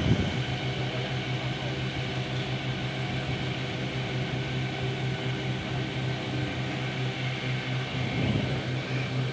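A small engine running at a steady speed: a constant, even drone that does not rise or fall.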